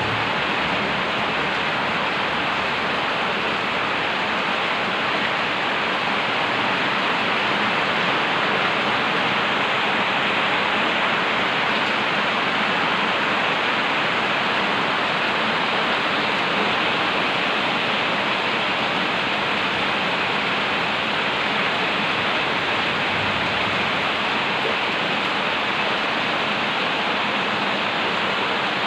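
Heavy rain falling in a steady downpour, an even hiss that holds at the same level throughout.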